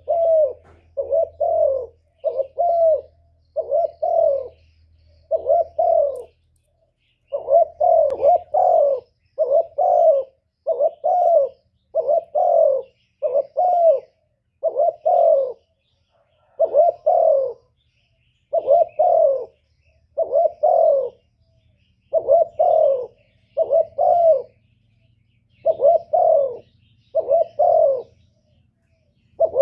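Spotted dove cooing over and over, short coos in runs of two or three with brief gaps between runs. This is a male's song as kept in a decoy bird for luring wild doves.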